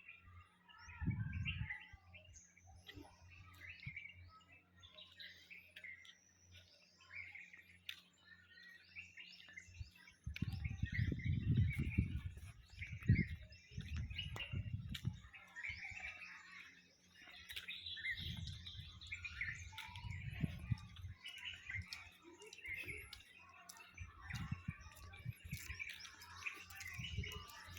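Many small birds chirping and twittering continuously, with several low rumbling bursts breaking in, the longest from about ten to fifteen seconds in.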